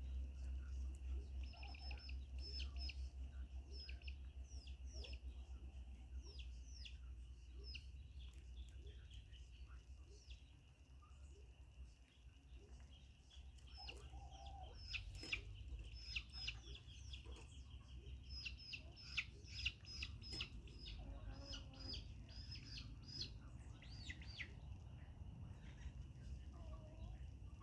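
Chickens clucking, with many short high chirps in quick runs and a low rumble underneath.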